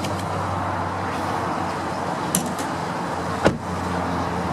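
Steady low hum of a car running, with a light click about two and a half seconds in and a louder, sharp click about three and a half seconds in.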